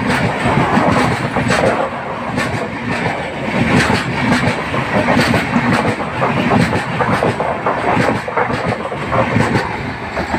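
Passenger train coaches passing close by: a loud, steady rumble and rattle of wheels on rails, broken by many sharp clacks. It starts to fall away near the end as the last coach goes past.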